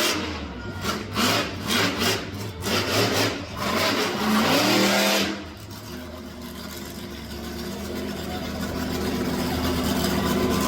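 Monster truck engine revved hard in a quick series of short blips for about five seconds, pitch climbing on the last ones, then running steadily and slowly getting louder.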